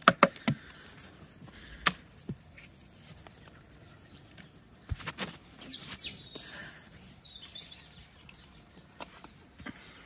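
A garden bird singing a short phrase of high, sliding whistled notes about halfway through, after a few sharp knocks near the start.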